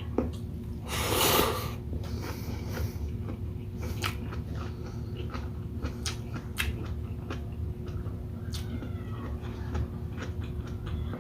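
Close-miked eating sounds: wet chewing of shrimp and squid in coconut milk with rice, with scattered lip-smacking clicks and a louder slurping burst about a second in.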